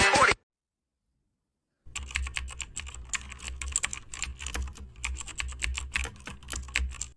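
Keyboard typing: rapid, irregular key clicks over a low hum, starting about two seconds in after a gap of silence.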